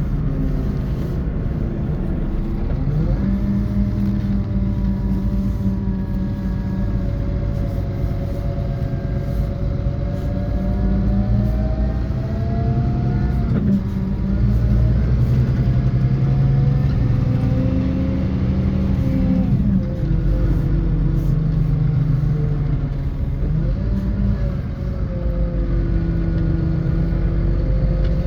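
Scania K450EB coach's 13-litre inline-six diesel running under load, heard from inside the bus. The engine pitch climbs and then drops sharply three times as the gearbox shifts up, over a steady road rumble.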